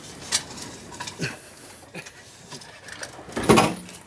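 Scattered clicks and knocks of catamaran rigging hardware as a mast is being lowered by hand. A louder clatter with a short voice-like sound comes about three and a half seconds in.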